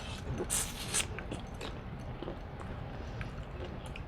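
A person eating close to the microphone. There is a short crackling burst about half a second in, then soft chewing and small mouth clicks.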